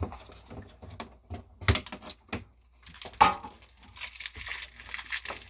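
Plastic packaging being handled: crinkling and rustling with scattered clicks and taps, two sharper knocks about one and a half and three seconds in, then steadier crinkling.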